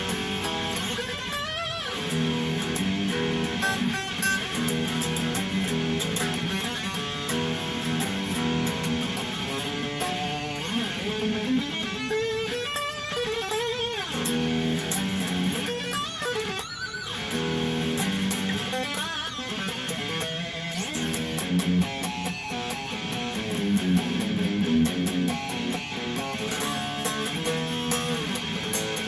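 PRS Tremonti electric guitar played through a Zoom X1, playing steady chords and picked lines with some sliding passages.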